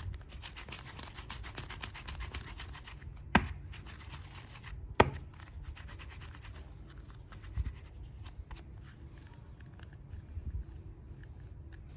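Hands handling super clay packaging: steady rustling and rubbing with many small clicks, and two sharp clicks about three and a half and five seconds in.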